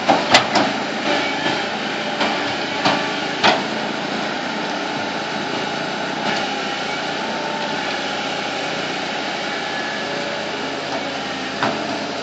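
Bulldozer engine running steadily, with several sharp knocks in the first few seconds and one more near the end.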